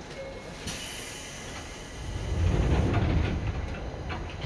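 Running noise heard from inside a Seibu 2000 series electric train car. A hiss comes in about a second in, then a louder low rumble of wheels on track swells through the middle, with a couple of sharp clicks near the end.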